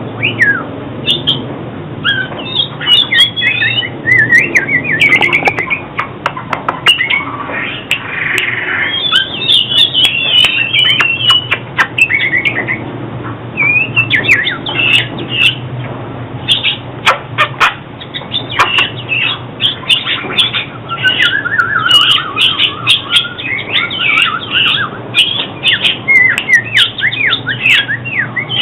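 Oriental magpie-robin singing a long, continuous run of quick, varied whistled and harsh phrases: the song used as a lure for trapping and to train caged magpie-robins.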